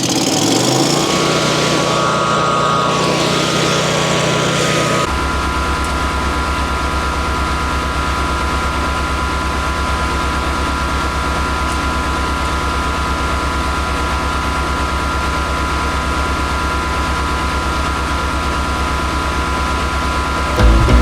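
The gas engine of a MechMaxx B200 35 hp wood chipper running just after starting on choke at low throttle. Its speed rises in the first second, then settles to a steady run. About five seconds in, the sound changes suddenly to a deeper, evenly pulsing drone.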